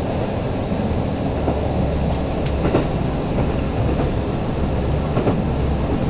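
Cabin sound of a KiHa 185 diesel railcar running at speed: a steady low engine and running drone, with the wheels ticking now and then over rail joints.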